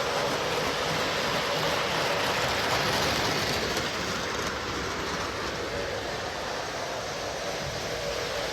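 O scale model train, two Lionel Lion Chief Dash 8 diesel locomotives pulling tank cars, running on the track with a steady rumble of wheels and motors. It eases off a little in the middle and grows louder again near the end.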